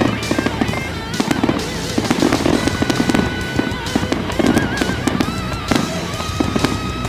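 Aerial fireworks bursting and crackling in quick, irregular succession over rock music with a wavering electric-guitar lead.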